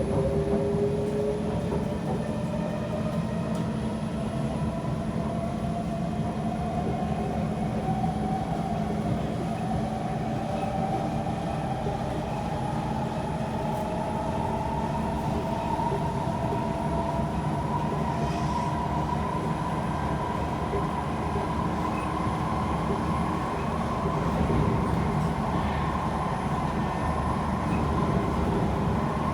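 Kawasaki C151 metro train running between stations, heard from inside the carriage: steady wheel and track rumble with a motor whine that rises steadily in pitch as the train gathers speed, then levels off near the end.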